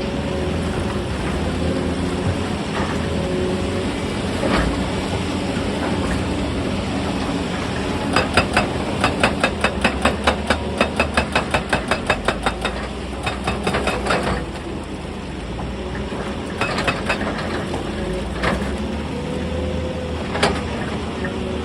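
Excavator diesel engine running steadily under load, with a rapid run of sharp hammering impacts, about four a second, from about eight seconds in for some six seconds, typical of a hydraulic rock breaker striking stone. A few single knocks come before and after.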